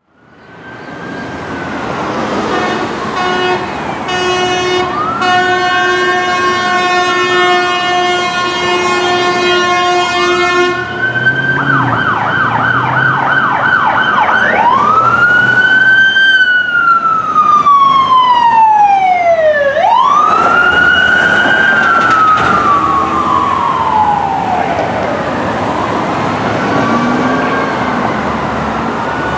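Emergency vehicle siren passing: a wail sweep, then a long steady horn blast for several seconds, then a fast yelp, then slow rising and falling wails that fade toward the end. A low engine rumble sits under the yelp.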